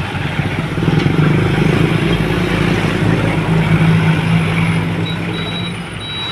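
Hino Dutro dump truck's diesel engine running, growing louder about a second in and holding steady. A reversing beeper starts sounding in short beeps near the end.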